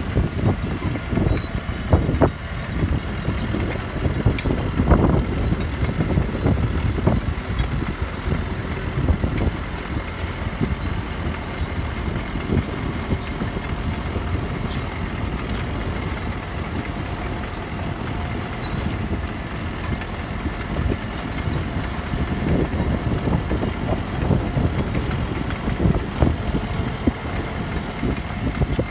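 CAT D3K crawler bulldozer working, its diesel engine running steadily under load, with irregular clanks and knocks as it pushes gravel.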